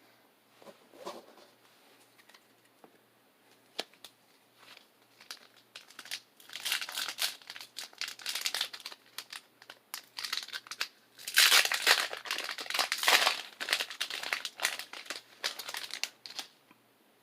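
Pokémon booster pack's foil wrapper crinkling and being torn open, with scattered crackles at first, then a dense run of crinkling that is loudest about halfway through.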